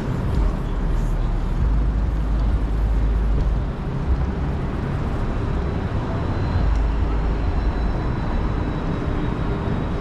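City street traffic: a steady low engine rumble of vehicles passing close by, with a faint high whine in the second half.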